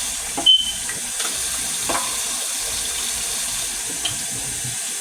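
Kitchen sink tap running steadily, with a short sharp knock and a brief high ring about half a second in.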